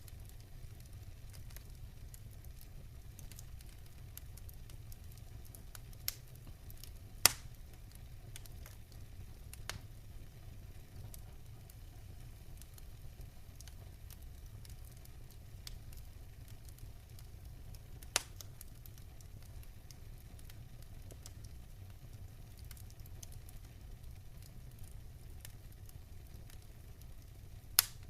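Wood fire burning in a fireplace: a steady low rumble of flames with constant small crackles, and a few loud sharp pops from the burning logs, the loudest about 7 seconds in, again about 18 seconds in and near the end.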